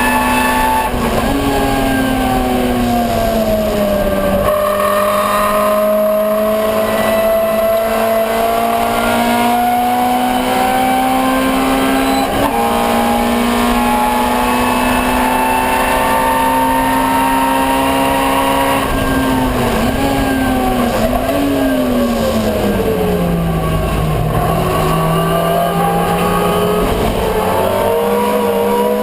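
Ford Escort 1300GT race car's four-cylinder engine running hard: revs climb slowly along a long pull, then drop with a couple of short blips about twenty seconds in as it brakes and shifts down, and rise again near the end.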